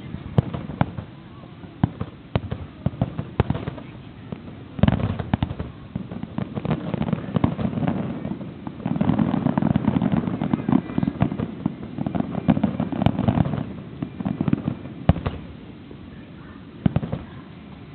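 Fireworks display: a continuous string of sharp bangs and crackling bursts, with dense volleys about five seconds in and again from about nine to fourteen seconds.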